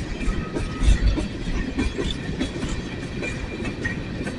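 Empty coal train cars rolling past slowly, wheels clicking over rail joints over a low rumble, with a louder thump about a second in and a faint high brake squeal.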